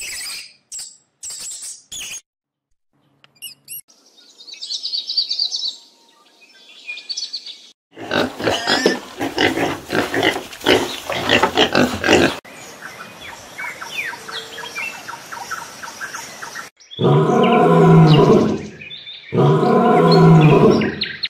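A series of different animal calls, one after another: high chirps and trills first, then a noisier stretch, and near the end two long, loud, low calls.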